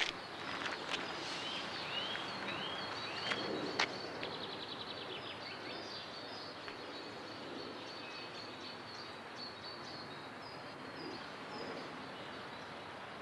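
Birds calling over a steady outdoor background hiss: a run of short rising chirps in the first few seconds, then scattered high twittering. Two sharp taps stand out in the first four seconds.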